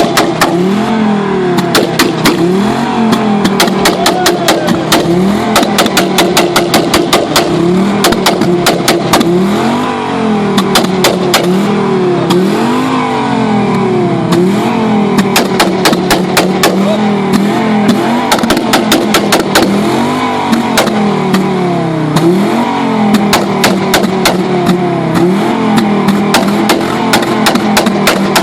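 Audi 90 2.3 10V inline five-cylinder engine revved in repeated blips, its pitch rising and falling every couple of seconds between steady idle stretches. Rapid sharp pops and crackles come from the exhaust throughout: afterfire, the kind that throws exhaust flames.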